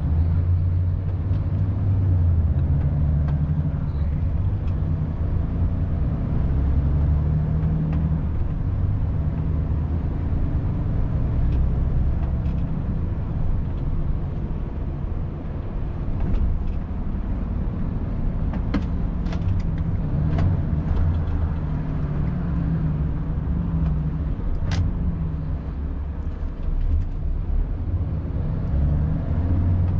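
Volvo FH 500 truck on the move: a steady low drone from its 13-litre straight-six diesel engine and the road, with the engine note rising and falling gently. A few sharp clicks sound in the second half.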